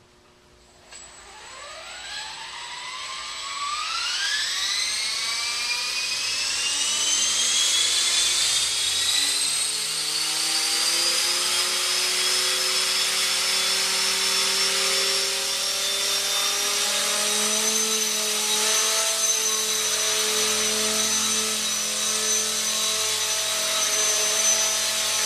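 Blade 400 electric RC helicopter spooling up: the whine of its motor and rotor rises steadily in pitch over about the first ten seconds, then holds steady at full speed.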